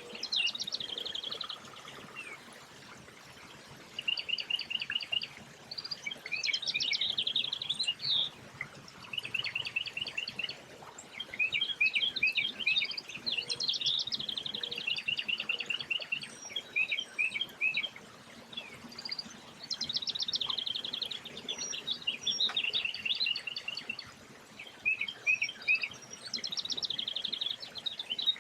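Songbirds singing: fast trilled phrases and runs of chirps, one after another with short pauses, sometimes overlapping.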